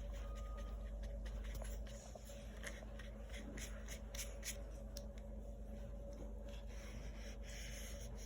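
Paintbrush brushing tempera paint onto paper: faint, scattered scratchy strokes over a steady low hum.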